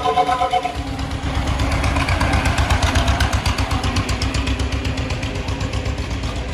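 A car engine running with a low, evenly pulsing exhaust note, which gets a little louder a couple of seconds in.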